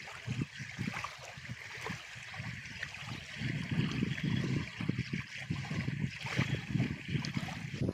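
Wind buffeting the microphone in irregular gusts over a steady hiss of water along the shore.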